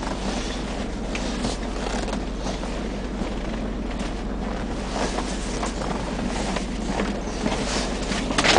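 Ford F-series box truck's 7-litre gas V8 running steadily, heard from inside the cab, with a few light clicks over the engine hum.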